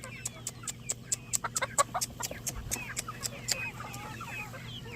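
Chickens clucking and chirping in many short calls, mixed with a quick run of sharp clicks.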